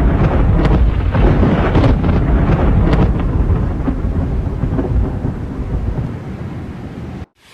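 Thunder: a loud rolling rumble with several sharp crackles over the first three seconds, fading away from about five seconds in and cutting off abruptly near the end.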